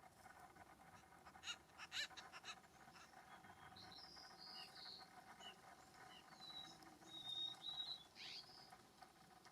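Faint wild bird calls: short high chirps and whistled notes, with one quick falling note near the end, over a faint steady hum. A few sharp clicks come just before the calls start.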